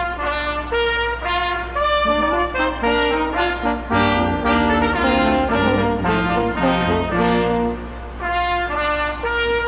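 Brass ensemble of trumpets and trombones playing a piece of music in held, changing chords, with a short breath between phrases about eight seconds in.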